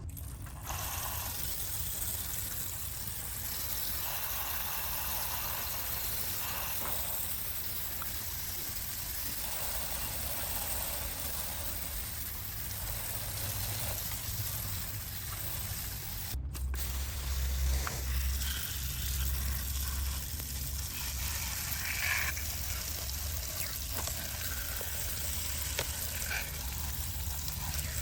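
Water spraying and running steadily, as in washing a muddy die-cast model truck.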